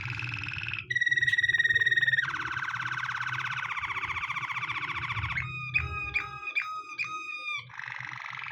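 Waterslager canary singing a string of song phrases: a quick trill, a held whistle with a slight fall, a long fast rolling trill, then a slower chopped series of notes about three a second, and another trill near the end.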